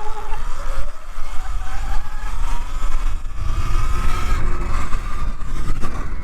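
Segway X160 electric dirt bike's electric motor whining as it rides, the pitch rising and falling with speed, over heavy wind buffeting on the microphone.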